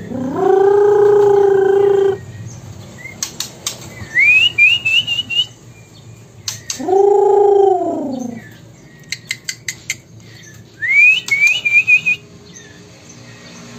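Bird calls. Twice, a short rising whistle runs into a quick string of chirps, among clusters of sharp clicks. These alternate with three long, drawn-out, even-pitched calls of about two seconds each, which are the loudest sounds.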